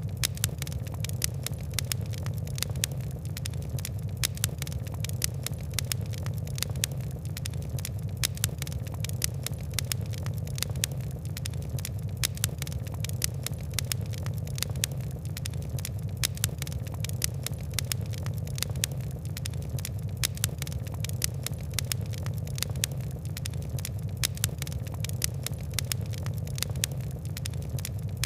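Fire crackling: a dense, irregular run of sharp ticks and pops over a steady low rumble.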